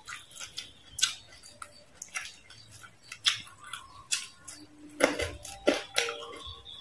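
Close-miked crunching of crispy deep-fried frog being bitten and chewed: sharp, crackly crunches at irregular intervals, the loudest about a second in and again around five to six seconds in.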